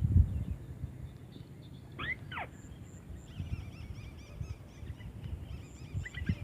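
White-browed crake calls: loud notes that sweep up and down steeply, about two seconds in and again near the end, with faint high chattering between them. A low thump at the very start is the loudest sound, over a low outdoor rumble.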